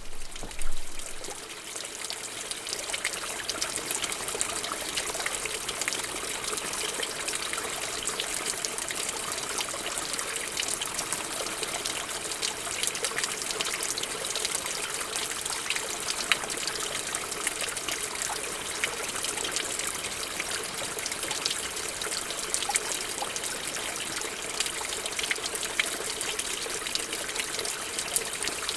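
Small stream trickling and splashing over stones, a steady rush with many small bright splashes, and one louder splash or knock just under a second in.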